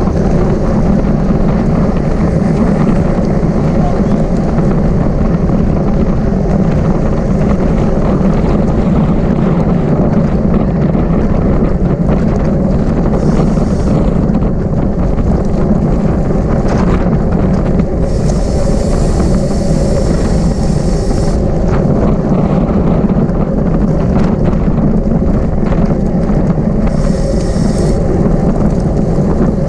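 Steady, loud wind rush on a bicycle rider's camera microphone while riding in a criterium, with brief higher hissing bursts three times.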